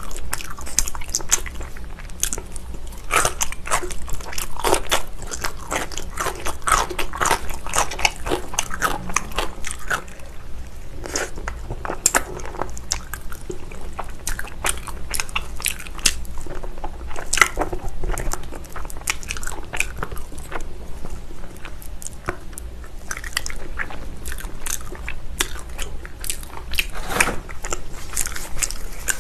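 Close-miked chewing and biting of spicy braised beef foot, with many short, irregular smacking clicks as the gelatinous meat and tendon are chewed.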